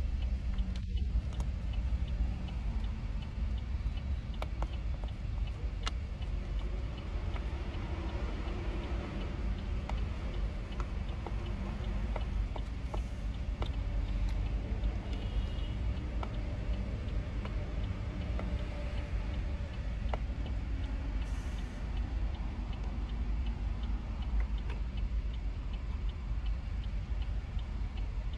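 Car cabin with a low engine and road rumble and a steady, faint ticking from the turn-signal indicator.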